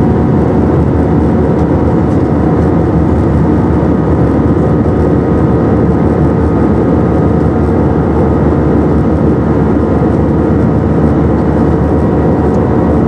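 Steady cabin noise of an Airbus A319 airliner in flight: a loud, even drone of jet engines and rushing air with a few steady humming tones over it.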